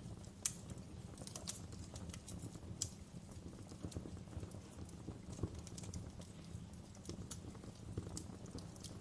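Wood fire crackling in a fireplace: irregular sharp pops and snaps over a steady low rumble of the burning fire, with the loudest pops about half a second in, near three seconds and past the five-second mark.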